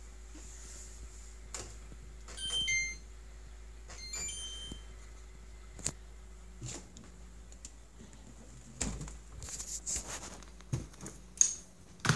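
Refrigerator running with a steady low hum, its weird fan noise gone while the door is open. Two short high beeps come a couple of seconds apart early on, with a few faint clicks and knocks later.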